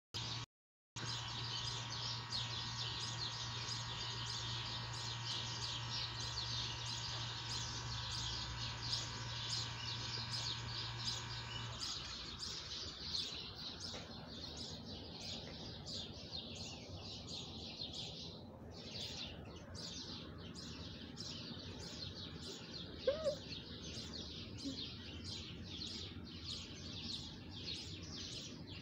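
A bird chirping over and over, high short chirps about two or three a second, over a low steady hum that stops about twelve seconds in.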